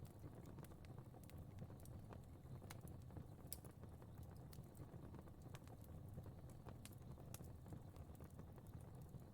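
Fire crackling faintly: scattered, irregular pops and snaps over a soft low rumble of flames.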